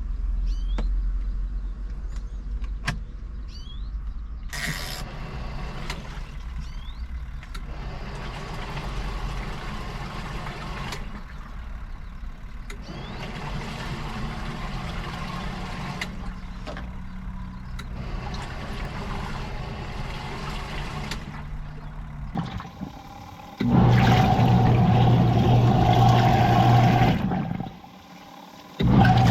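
Motor of a My Wave Duo2.5 compact two-tub washing machine running, its level rising and falling. Near the end a much louder steady motor hum starts, cuts out briefly and starts again.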